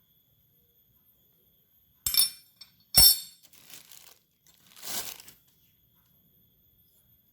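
Hard parts being handled: two sharp clinks about a second apart, the second the loudest, then lighter rustling and a short scraping swell.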